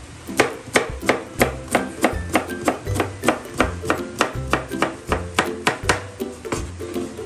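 Kitchen knife slicing a block of bamboo shoot on a plastic cutting board, a crisp knock with each stroke at about three cuts a second, stopping near the end.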